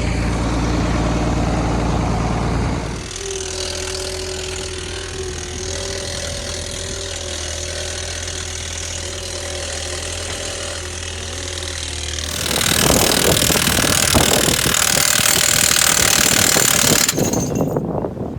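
Engine running, its note changing and quietening about three seconds in, then a loud rush of noise for about five seconds near the end.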